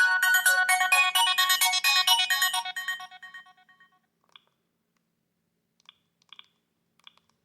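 Preloaded polyphonic ringtone playing from a Sony Ericsson K750i mobile phone, a quick run of bright electronic notes that fades out about three to four seconds in. A few faint clicks follow in the quiet.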